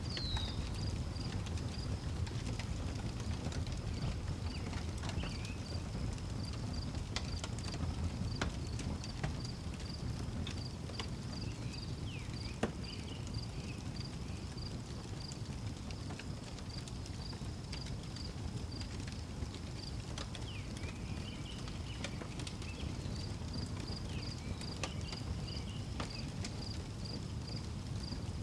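Wood fire crackling, with scattered sharp pops over a low steady rumble. A cricket chirps in a steady pulsed rhythm throughout, and a bird calls briefly now and then.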